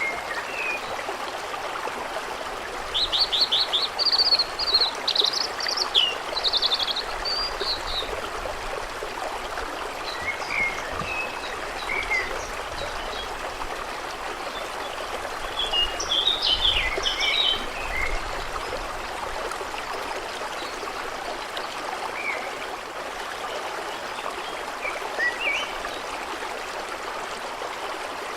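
A stream running steadily over stones, with songbirds singing over it: a burst of rapid trilled phrases about three seconds in, another cluster of notes about halfway through, and scattered single chirps.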